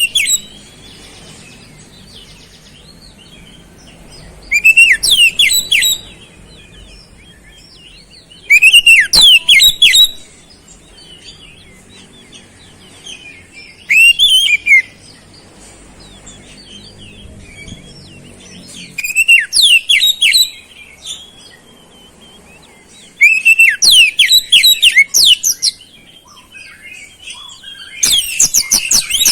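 Oriental magpie-robin (kacer) in full song: loud bursts of rapid, high chirps and sweeping whistles, each a second or two long, repeating about every four to five seconds. Its repertoire is filled with learned flowerpecker (cabe-cabean) calls.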